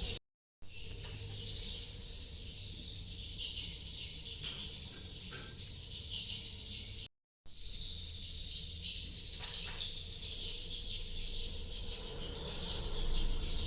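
Dense, continuous high-pitched chittering of swiftlets, cut off to silence twice for a moment, once near the start and once about halfway.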